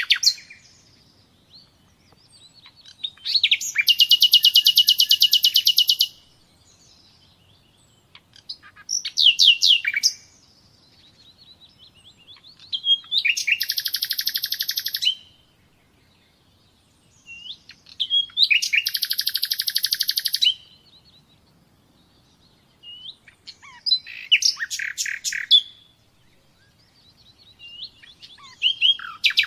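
A songbird singing in separate phrases about every four to five seconds, some long, fast trills two to three seconds long, others short clusters of sharp, sweeping high notes, with quiet pauses between.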